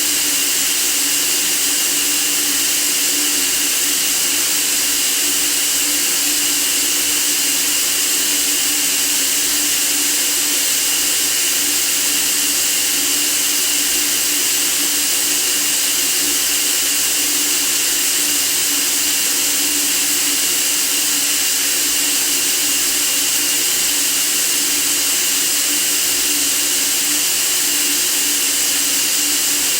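Steady, unchanging white-noise hiss, strongest in the treble, with a faint low hum underneath.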